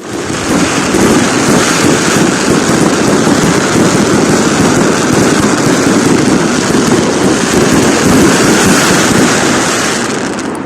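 Fireworks salute: a dense, unbroken crackling and rumbling from many shells going off at once, easing slightly near the end.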